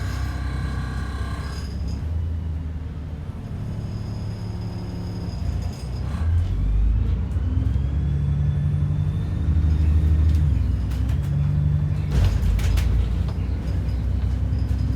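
ADL Enviro 400 double-decker bus's diesel engine and drivetrain heard from on board: running low, then pulling away about six seconds in, with a rising transmission whine as it speeds up. A short air hiss about twelve seconds in.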